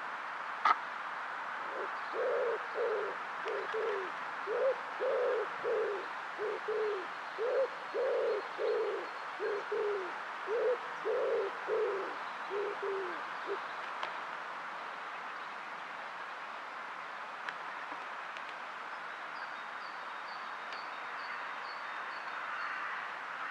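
Male common wood pigeon cooing softly: a run of about twenty short, low coos over some twelve seconds, several dropping in pitch at the end. A single sharp click comes just before, and a small bird chirps faintly near the end over steady background noise.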